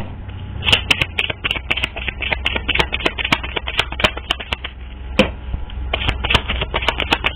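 Typing on a keyboard: quick, irregular key clicks, several a second, over a low steady hum.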